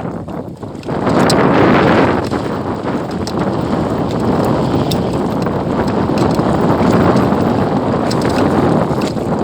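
Strong wind buffeting the microphone in gusts, a loud rushing noise that drops briefly near the start and then picks up again.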